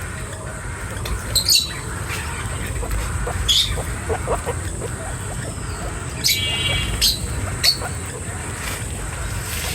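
Short, high-pitched animal calls, spaced a second or two apart, with a brief rapid rattle about six seconds in, over a steady low rumble.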